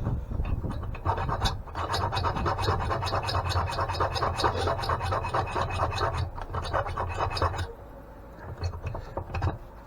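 Rapid scraping strokes of a hand tool worked hard against a seized square-nut bolt for about seven seconds, stopping near the end and followed by a few lighter scrapes.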